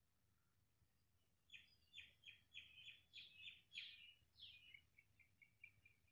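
A songbird singing faintly: a run of sharp chirped notes, about three a second, starting about a second and a half in, then a quicker string of shorter, softer notes trailing away near the end.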